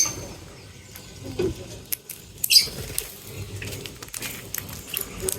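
Small birds feeding: scattered pecking and scratching clicks, with one short high chirp about two and a half seconds in.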